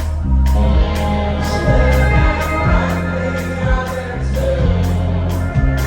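A live band playing, loud, with a heavy bass line, drums and group vocals holding sung lines.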